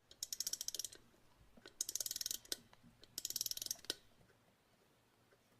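Music box being wound up: three turns of the winding key, each a quick run of ratchet clicks from the spring mechanism.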